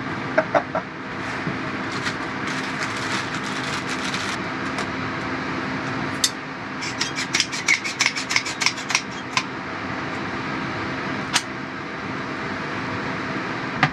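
Small plastic clicks and taps from handling shower head and mount parts: a few scattered at first, a quick run of them from about six to nine seconds in, and one sharp click near the end. Under them runs a steady fan-like hum with a low steady tone.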